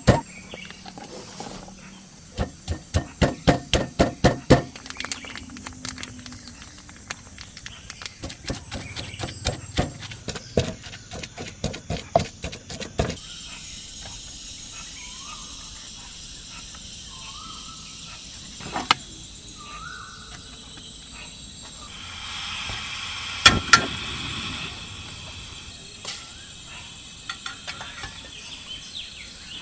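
A knife chopping on a cutting board in quick runs of strokes, about four a second. Then forest ambience with insects and a few short bird chirps.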